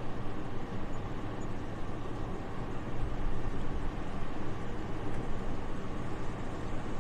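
Soft, steady wind noise: an even, airy rush with most of its weight in the low and middle range, swelling a little about halfway through.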